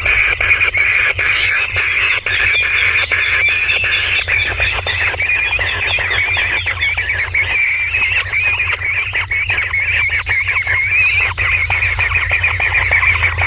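Continuous natural chorus: a high, rapidly pulsing insect trill over busy bird calling, with a steady low hum beneath.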